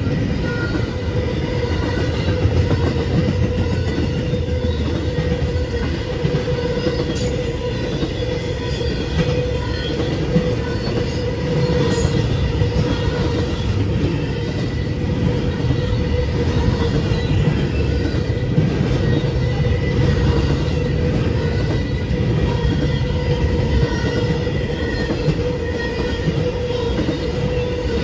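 Train cars rolling past on steel rails, a steady loud rumble with a continuous ringing squeal from the wheels.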